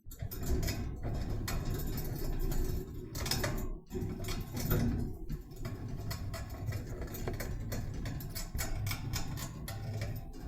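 Budgerigar chattering: a dense, fast run of clicks and short chirps without pause.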